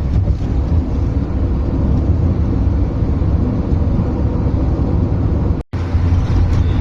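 Car driving along the road: a steady low rumble of engine and tyre noise, which cuts out for an instant about five and a half seconds in.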